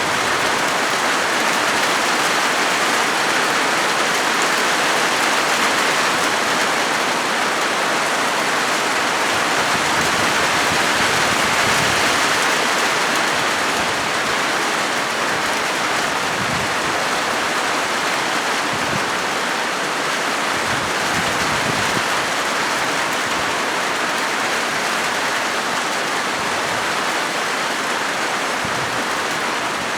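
Rain falling steadily on a corrugated zinc (sheet-metal) roof: an even, unbroken patter.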